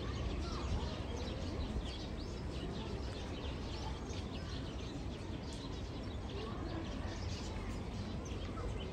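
Outdoor ambience: many short chirps of small birds over a steady low background rumble.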